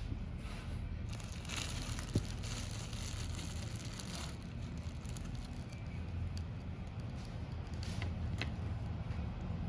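Fan palm leaf strips rustling and crinkling as they are handled and pulled through in weaving, in a long stretch over the first few seconds and a shorter one near the end, with a single sharp click a little after two seconds in.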